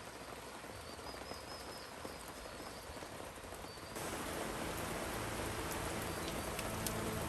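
Steady rain with a small bird chirping in short runs. About four seconds in the rain turns suddenly louder and soft background music begins.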